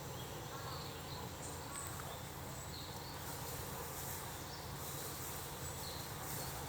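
Steady outdoor zoo ambience with insects buzzing and a few short, faint chirps over a low background hum.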